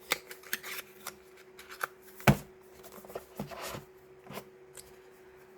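Handling noise on a tabletop: small taps and clicks as glass ink bottles and packaging are moved, with one sharp knock about two seconds in as something is set down. A faint steady hum runs underneath.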